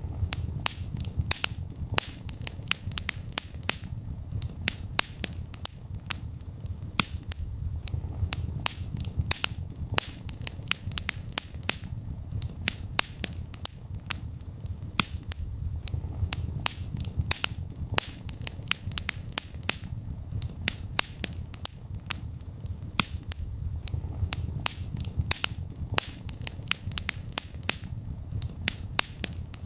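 Wood fire burning in a fireplace: a dense run of sharp, irregular crackles and pops, several a second, over a steady low rumble of the flames.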